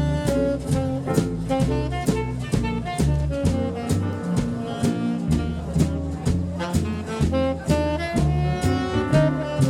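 Live jazz-style band playing an instrumental passage: saxophone lines over a walking bass and a drum kit keeping a steady beat.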